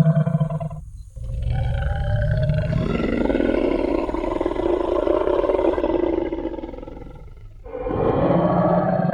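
Designed T. rex roar sound effect: one roar dies away about a second in, a long deep roar follows for about six seconds and fades out, and another roar starts near the end.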